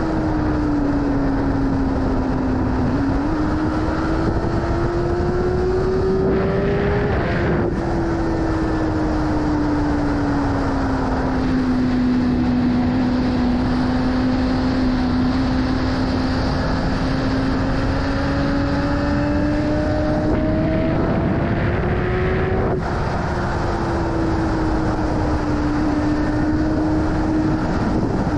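BMW S1000RR inline-four engine under way with rushing wind noise. The engine note climbs and sinks with speed and drops sharply at gear changes, once about a quarter of the way in and again near the end.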